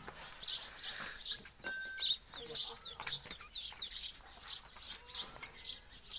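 Small birds chirping, many short high chirps repeating over and over.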